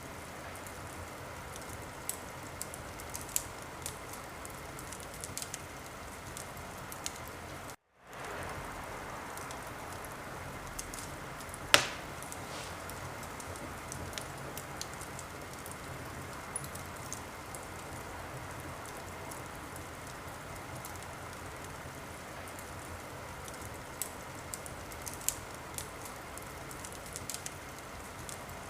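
Wood fire burning in a fireplace: a steady hiss with scattered sharp crackles and pops, one much louder pop about twelve seconds in. The sound cuts out completely for a moment just before eight seconds in.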